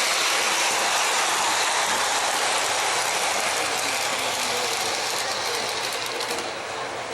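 O-gauge model train running along its track with a steady mechanical gear and wheel clatter, easing off near the end.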